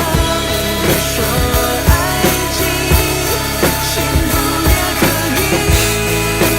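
Rock band music with a drum kit keeping a steady beat and a melodic lead line that bends in pitch over it.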